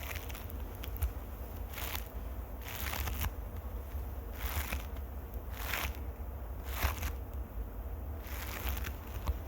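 Close-miked ASMR trigger sounds: short, scratchy, noisy swishes recurring roughly once a second over a steady low rumble from the microphone.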